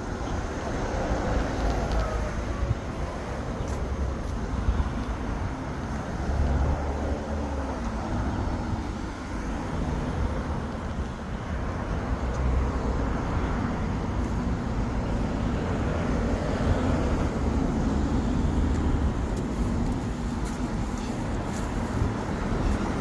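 Steady car and road noise from a vehicle driving, with the low rumble loudest and faint shifts in engine pitch.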